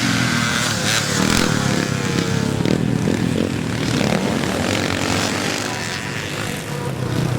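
Classic motocross bikes' engines running and revving, the pitch rising and falling as the throttles open and close.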